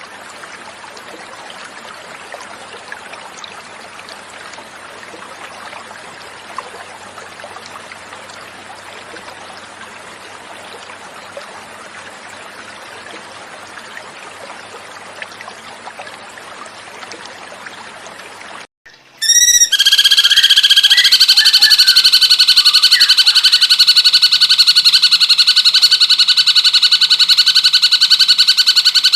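Flowing water running steadily, then after about two-thirds a short break and a switch to loud, rapid, endlessly repeated cucak cungkok bird song from a looped training recording.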